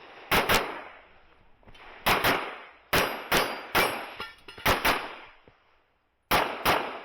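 Handgun fire during a timed IPSC stage: about eleven shots, mostly in quick pairs, with short pauses between the pairs and a longer gap before the last pair.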